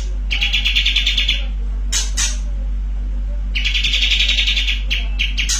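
Kapas tembak (pied triller) singing: two long, rapid buzzy trills, the 'bren' rattle, each about a second long, with a few short sharp notes between them, over a steady low electrical hum.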